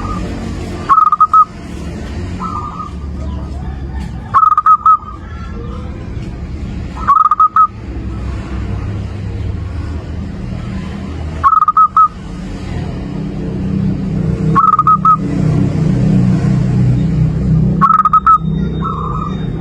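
Zebra dove (perkutut) cooing: short rolling, stuttering phrases repeated about every three to four seconds. A steady low rumble runs underneath and grows louder towards the end.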